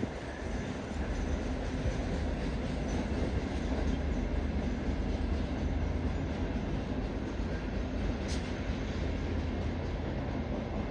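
Work train hauled by GP40MC-3 diesel locomotives running with a steady low rumble and rail noise, with a brief click about eight seconds in.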